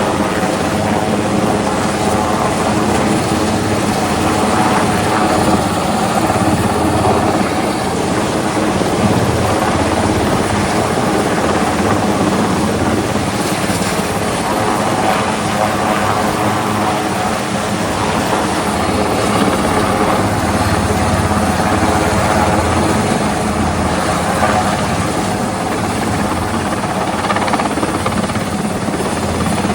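Helicopter flying close by, its rotor and engine running steadily and loudly without a break.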